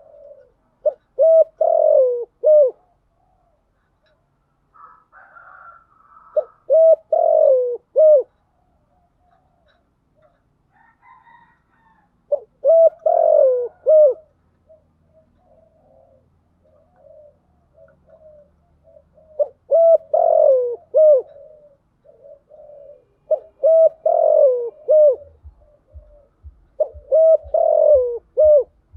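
Spotted dove cooing: six loud phrases of three or four hollow coos, each a little over a second long, with softer coos between them. A few higher, fainter calls come in about five and ten seconds in.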